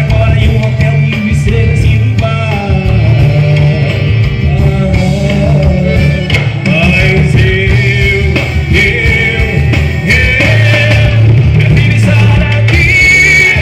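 Forró band music: a moving melody line over a steady, heavy low beat, with no words transcribed.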